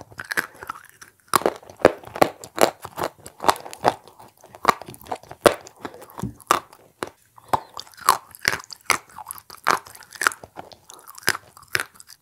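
Close-miked chewing and crunching of chalk dipped in clay paste: crisp, irregular crunches, several a second.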